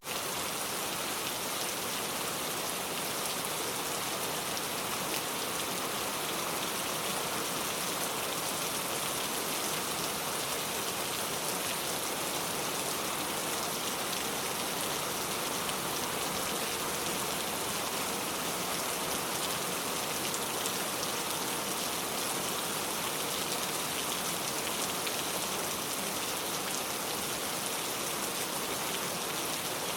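Steady rainfall, a constant even hiss of drops pattering on surfaces, with no let-up or change in strength.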